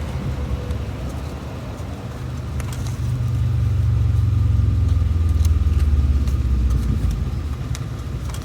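Low vehicle engine rumble that swells for a few seconds from about three seconds in, then eases off.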